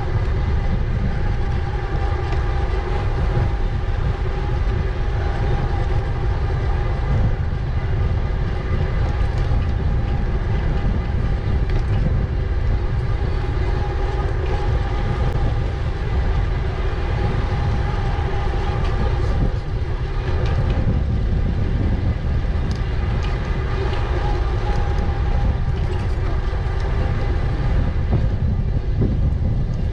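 Wind rushing over the microphone of a moving e-bike, with a steady whine from the bike's electric motor as it rides along.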